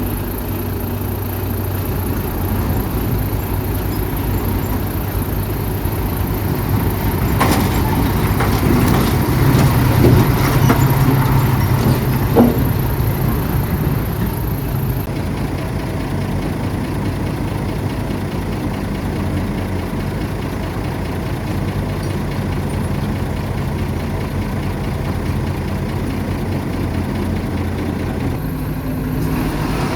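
A bulldozer's heavy diesel engine runs steadily under load. Around the middle it swells louder with some clanking and a sharp knock.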